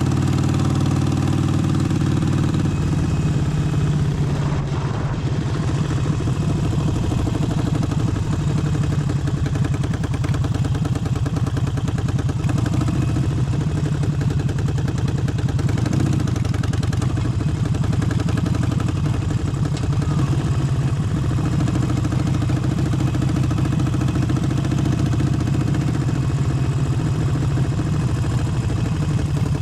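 Harley-Davidson Forty-Eight's air-cooled 1200 cc V-twin engine running steadily, with only small changes in pitch.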